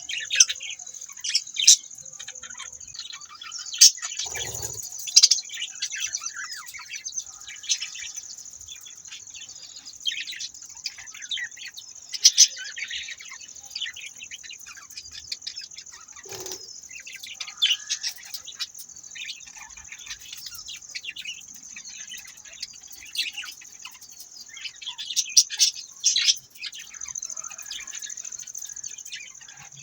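Budgerigars chirping and chattering in many quick, short calls over a steady high-pitched hiss, with two brief lower flutters, about four seconds in and again about halfway through.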